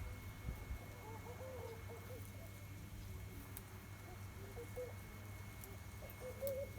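A dove cooing quietly in short, low, wavering phrases, once about a second in and again near the end, over a steady low hum.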